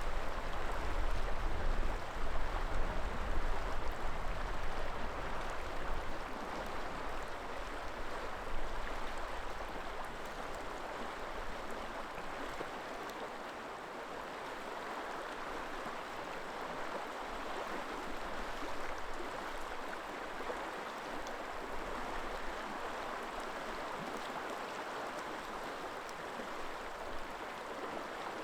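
River water flowing steadily over rocks. Gusts of wind rumble on the microphone in the first several seconds, then die away before the middle.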